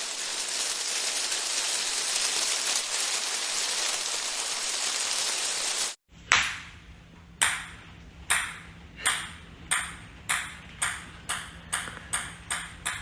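A steady hiss that stops abruptly about six seconds in. It is followed by a run of sharp, ringing pings that come faster and faster, over a low hum.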